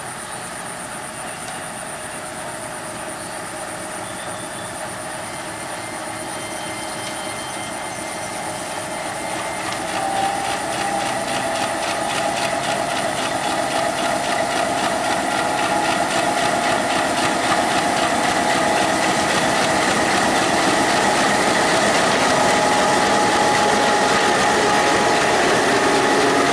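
Diesel-hauled express train behind a WDM-3A locomotive approaching on broad-gauge track. It grows steadily louder, with a clear step up about ten seconds in, and a dense rolling clatter of wheels on rail with a few steady tones on top.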